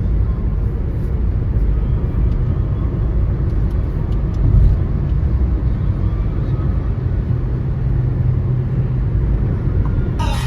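Steady low rumble of engine and road noise inside a moving car, with a low hum that holds for the last few seconds.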